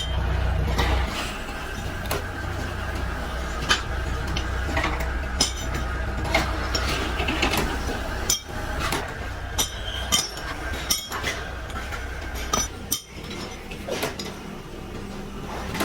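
Metal parts clinking and being tapped in a workshop: irregular sharp knocks over a steady low machine hum, which drops away about eight seconds in.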